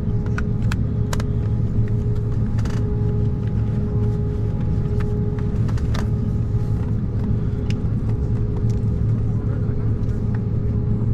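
Steady cabin drone of an Embraer 190-E2 airliner with its Pratt & Whitney PW1900G geared turbofans running, a constant low rumble with a steady hum on top. A few faint clicks and ticks sound over it in the first few seconds.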